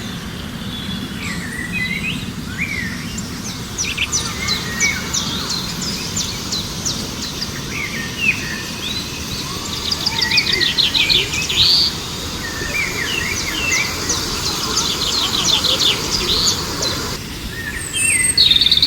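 Several wild birds chirping and singing, with quick rapid trills, over a steady background hiss that drops away near the end.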